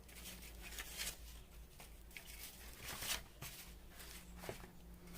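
Faint rustling of paper scraps being handled and sorted, with a few brief rustles, the clearest about three seconds in.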